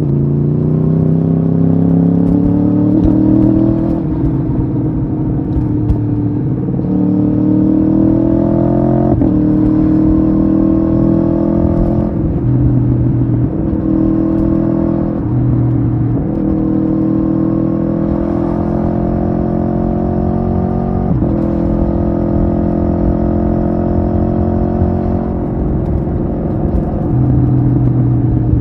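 Aprilia Tuono V4R's V4 engine under way, its note rising steadily under acceleration and dropping sharply at each upshift, about half a dozen times.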